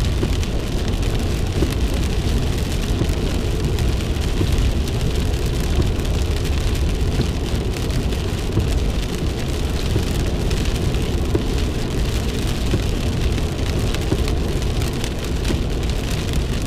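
Rain pattering on a moving car's body and windows, heard from inside the cabin over a steady low road and engine rumble.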